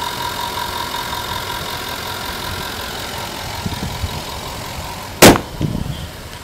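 2011 Jaguar XF's 5.0-litre V8 idling with a steady high whine on top. About five seconds in the hood is slammed shut with one loud bang.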